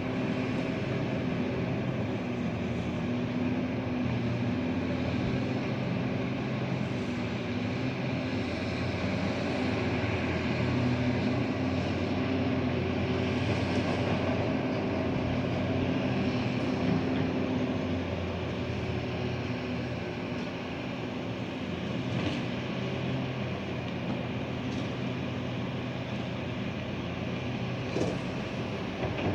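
Engine of a heavy construction machine running steadily, with a few brief knocks or clanks near the end.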